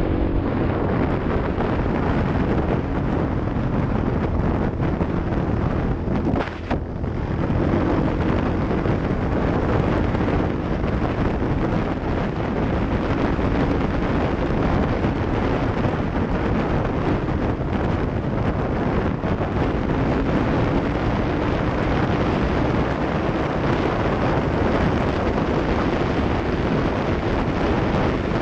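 Off-road vehicle engine running, mostly buried under heavy wind buffeting on the microphone; the level drops briefly about six and a half seconds in.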